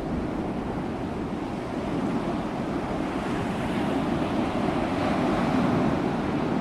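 Ocean waves washing onto a shore in a steady surf, one wave swelling louder through the middle and latter part.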